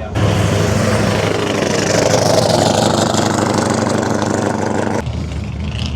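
A loud car engine running, starting abruptly and cutting off suddenly about five seconds in.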